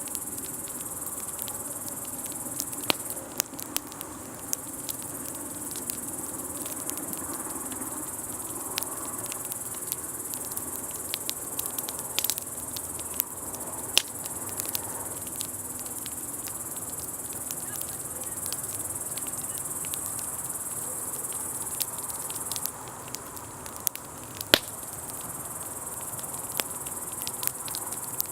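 A steady high chirring of crickets, with a wood campfire crackling throughout in irregular sharp snaps and pops, the loudest pop about three-quarters of the way through.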